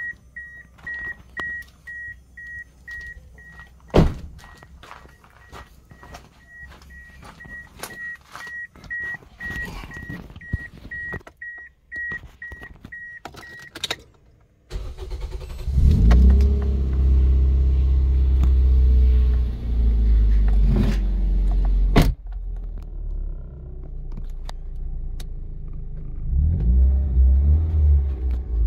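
A car's dashboard warning chime beeps about twice a second among small clicks. About 15 seconds in, the Toyota Vios engine cranks and starts on its MegaSquirt MS3 standalone ECU and settles into a steady idle. There is a sharp click a few seconds later, and the low engine sound swells briefly near the end.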